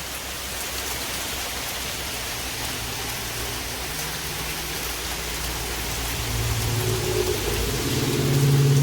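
Rain falling steadily in a continuous hiss. A low steady hum comes in about six seconds in and grows louder toward the end.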